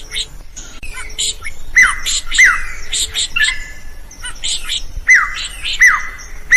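Drongo singing loudly: quick clusters of sharp high chirps mixed with pairs of hooked whistles that swoop down in pitch, the phrase given twice.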